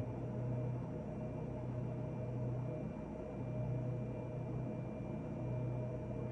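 Steady low hum with a faint hiss; the low tone swells and eases about every two seconds.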